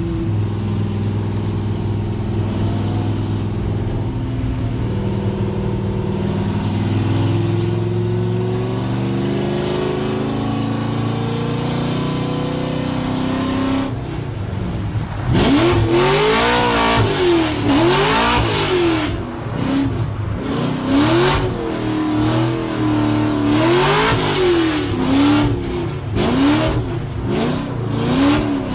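Drift car engine heard from inside the cabin. For about the first half it runs steadily, pitch slowly climbing. From about halfway it revs sharply up and down over and over, every second or two, as the car is drifted.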